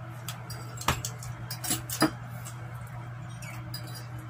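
Close-up eating sounds: chewing and lip-smacking, with a few sharp clicks, the loudest about a second in and at two seconds, over a steady low hum.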